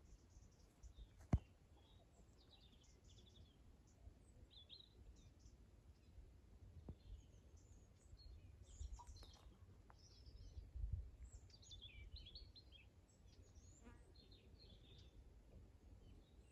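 Small wild birds chirping and twittering faintly in many short, scattered calls, with a sharp click just over a second in and a low rumble underneath.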